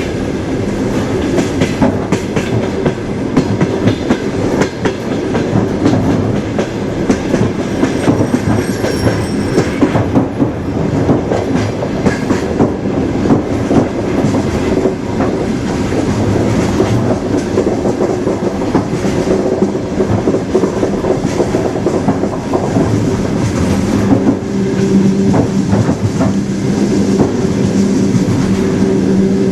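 Train running along the track: a continuous rumble of wheels on rails with a steady low hum, and a string of clicks as the wheels pass over the rail joints.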